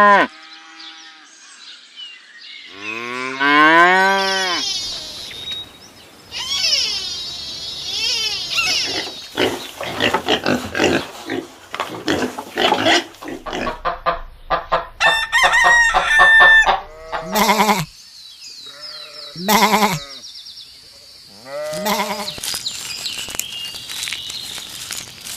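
Farm animal calls from livestock and poultry, one after another. A long rising call about three seconds in, a busy stretch of many rapid short calls in the middle, and several short calls near the end.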